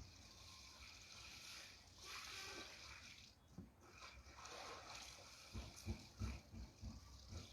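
Faint water splashing and sloshing as clothes are hand-washed in a basin, with a few soft knocks near the end.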